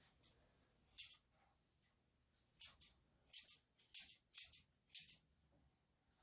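Grooming scissors snipping a Shih-Tzu's coat: about ten short, crisp snips, some in quick pairs, with short pauses between.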